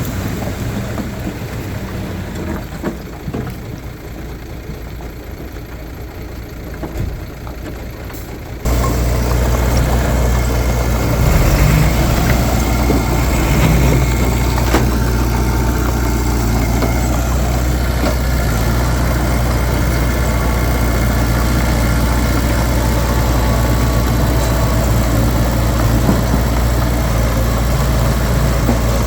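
Heavy diesel engine of earthmoving machinery running steadily. About nine seconds in, it suddenly becomes much louder and deeper and stays that way.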